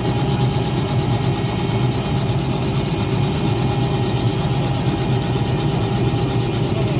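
Helicopter running steadily, a continuous engine and rotor drone with a steady high whine over it.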